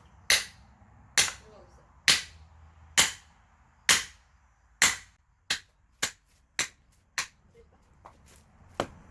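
Repeated sharp blows driving a splitting tool into a firewood log. There are six hard strikes about a second apart, then lighter, quicker taps.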